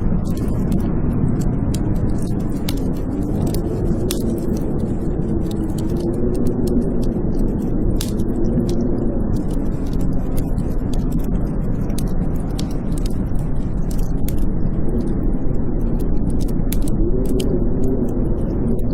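Blizzard wind howling, a steady low rush with a moaning tone that wavers up and down, over a wood fire crackling with frequent sharp pops.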